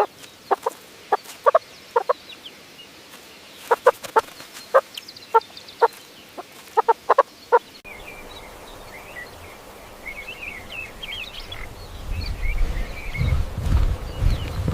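Domestic fowl calling in a series of short, separate clucking calls. About eight seconds in this gives way to rapid high-pitched chirping peeps over a low rumble.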